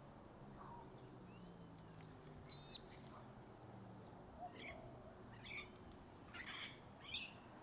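Wild birds calling in bushland over a faint steady background hush. There are a couple of thin whistles early, then four or five short, sharp calls in quick succession in the second half.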